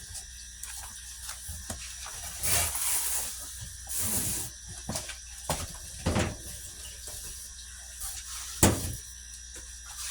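A cardboard shipping box being opened and handled: short scraping and tearing noises with several sharp knocks, the loudest knock near the end.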